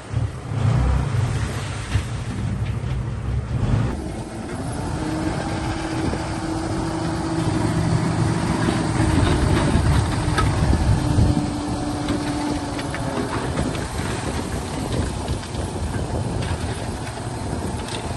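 Heavy diesel earthmoving machinery running under load, with a low rumble throughout. A steadier, higher engine note comes in about five seconds in and holds until about thirteen seconds, with scattered knocks.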